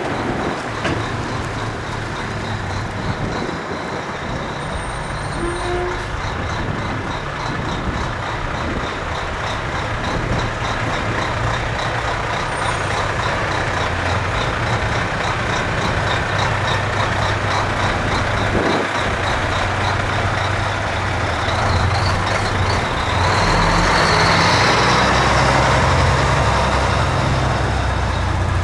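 Heavy trucks' diesel engines running in a convoy, a steady mix of engine and road noise that grows louder near the end.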